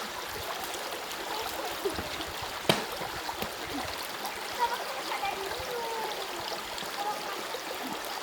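Stream water running steadily, with one sharp knock a little under three seconds in.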